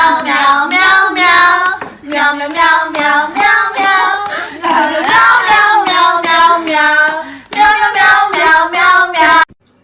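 A high-pitched voice singing a song in short phrases, cutting off suddenly near the end.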